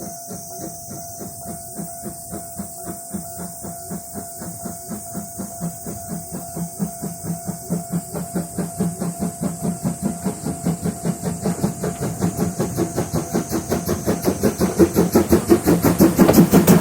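C12-class steam tank locomotive pulling away: its exhaust chuffs come steadily faster and louder as it gathers speed, over a steady hiss of steam.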